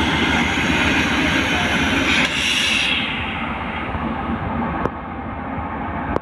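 Railway vehicles running: a steady, loud rushing noise that turns duller and a little quieter about three seconds in, with two short clicks later on.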